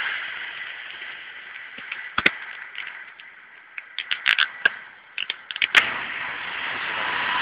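Noise of a passing express train fading away in the first couple of seconds, then a quieter stretch with a string of sharp clicks and cracks in the middle. Near the end the sound of a second train approaching builds steadily.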